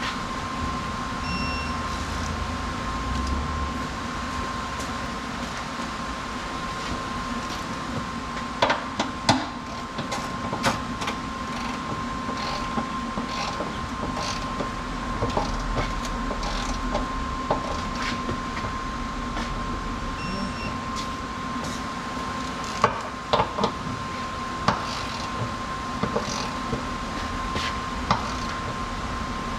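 Steady mechanical hum in a workshop with scattered short metallic clicks and knocks of hand tools and parts.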